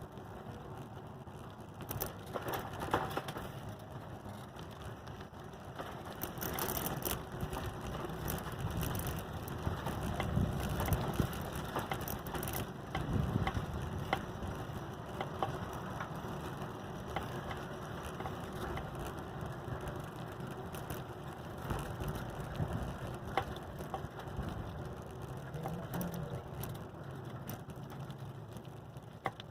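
Adult tricycle being ridden: tyres rolling over pavement with a steady rumble, and the chain and frame ticking and rattling throughout.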